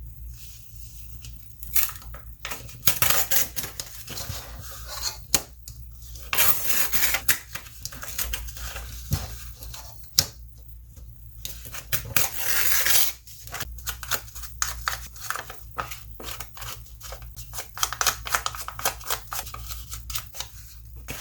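Paper being handled on a craft table: rustling stretches with many light taps and clicks.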